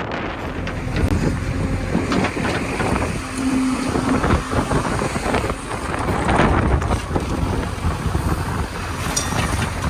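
Diesel engine of a JCB 3DX backhoe loader running under load while it digs and loads mud, with wind buffeting the microphone and occasional knocks.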